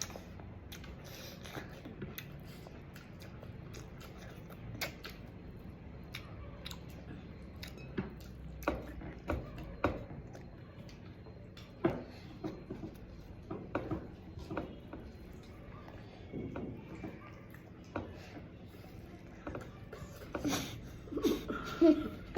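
Close-up chewing and mouth sounds of someone eating rice and pork, with scattered short clicks and smacks throughout.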